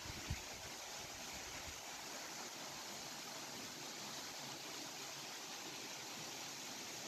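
Steady rush of water from a waterfall pouring over rocks, with one brief low thump right at the start.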